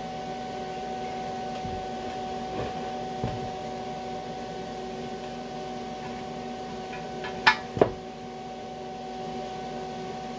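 Steady electrical hum from shop equipment, with a few light clicks and two sharp knocks in quick succession about seven and a half seconds in.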